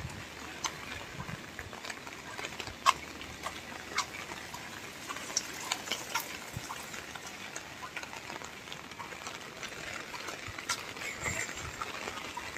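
Rain falling: a steady hiss with scattered sharp drip ticks, the loudest about three seconds in.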